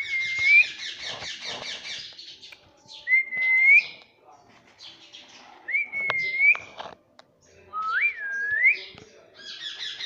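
Indian ringneck parrot whistling four short notes, each sliding up at the end, with a fast, buzzy chatter at the start and again at the very end.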